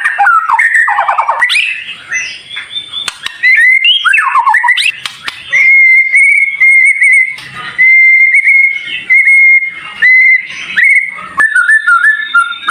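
White-rumped shama song: a few seconds of quick phrases gliding up and down, then a string of long, level, high whistled notes repeated with short breaks.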